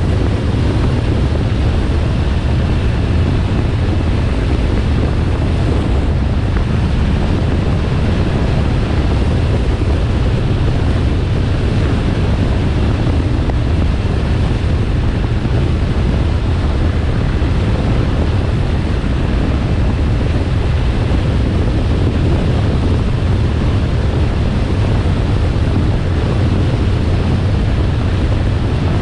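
Steady wind buffeting the microphone over a low, even rumble, as from a motorcycle ridden at a steady speed.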